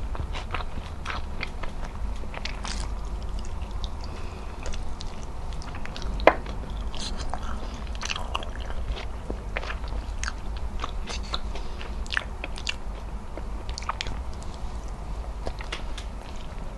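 Wet, sticky chewing and mouth clicks from eating gelatinous braised beef trotter skin and tendon (adobong pata ng baka), with one sharper click about six seconds in.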